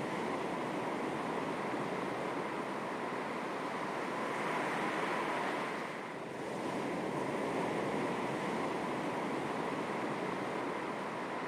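Calm sea waves lapping on the shore: a continuous wash of water noise that dips briefly about halfway through and swells again.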